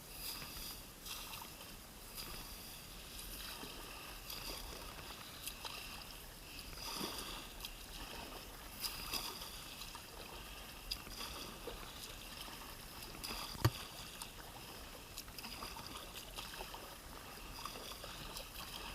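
Akvagrafika Viking 4.7 kayak being paddled along a creek: quiet paddle strokes and water sounds with scattered light knocks, and one sharper knock about two-thirds of the way through.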